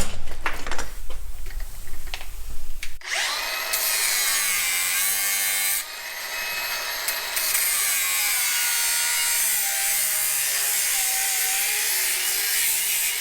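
A few seconds of clattering as metal parts are handled, then about three seconds in a power tool starts cutting through the metal oil pickup tube. It runs steadily, its whine wavering as it bites, with a brief dip a few seconds later.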